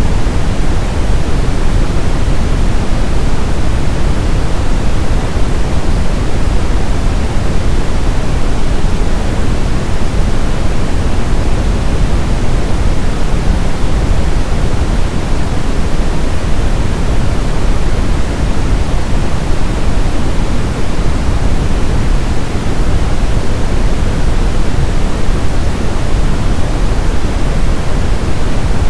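Steady brown noise: an even, deep hiss without tones, strongest in the bass and thinning toward the highs, like a continuous rumble.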